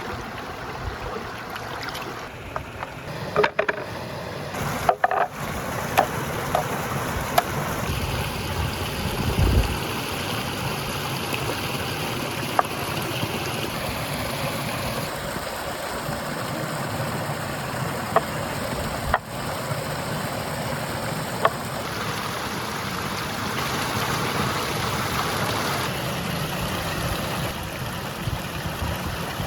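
Steady sizzling of food cooking over a wood fire, with scattered small clicks and pops.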